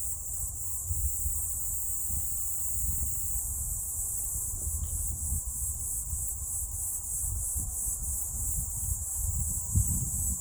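Mountain wind buffeting the microphone in an irregular low rumble, gusting harder near the end, over a steady high chirring of insects.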